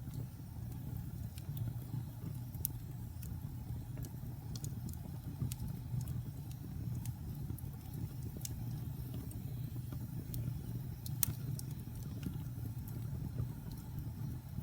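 Wood fire burning in a fireplace: a steady low rumble of the flames with the wood crackling in scattered sharp pops, the loudest about eleven seconds in.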